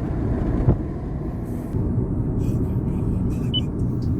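Steady low road and engine rumble inside a moving car's cabin, with one short knock about two-thirds of a second in.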